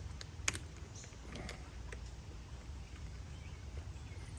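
Light handling clicks from a chainsaw's throttle linkage and carburetor being worked by hand, with one sharper click about half a second in, over a low steady hum.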